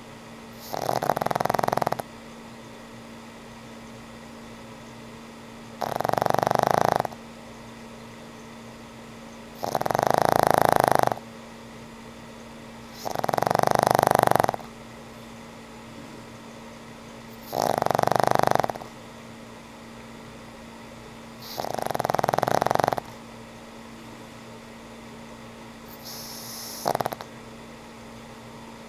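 Old pug snoring in sleep, a snore about every four seconds, each lasting a second or so; seven snores, the last one shorter and fainter.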